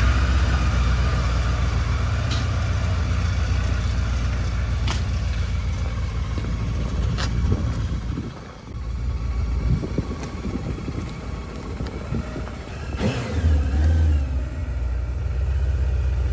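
A vehicle engine running, loud and steady for the first half, then rising and falling unevenly, with a few sharp clicks and knocks over it.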